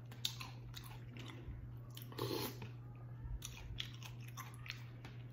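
Close-miked chewing and biting of crispy fried birria tacos: a string of irregular crunches and wet mouth noises, over a steady low hum.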